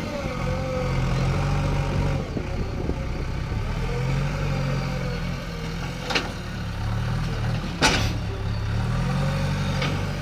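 Diesel engine of a JCB 3DX backhoe loader running and revving up and down as it works, with a faint wavering whine over it. Two sharp clanks come about six and eight seconds in, and a lighter one near the end.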